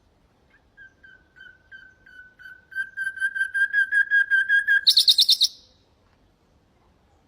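Nightingale singing one song phrase: a run of repeated whistled notes on one pitch, growing louder and quicker, that breaks into a short, very fast, high trill and stops.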